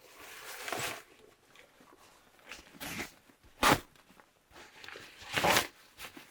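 A few irregular crunching, rustling handling noises, with a sharp knock just past the middle and a louder, longer crunch near the end.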